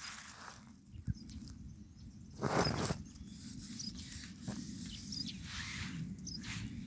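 Outdoor ambience with a short rustle about two and a half seconds in and a few faint, scattered bird chirps over a low steady background.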